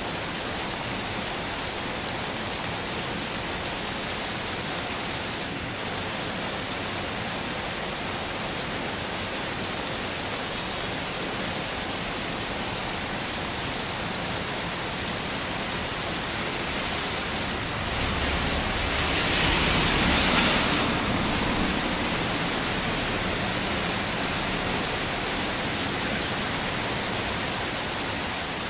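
Steady heavy rainfall, an even hiss, which briefly dips twice and swells louder with a low rumble about two-thirds of the way through.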